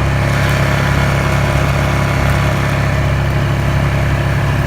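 ATV engine running steadily at an even speed while riding.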